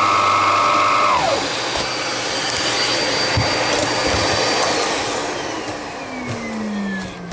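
TriStar MG2 (Electrolux-style) canister vacuum running with a steady whine, on test after a repair to its hose neck. About a second in, one whine drops away. From about five seconds in, the motor's whine falls steadily in pitch as it spins down.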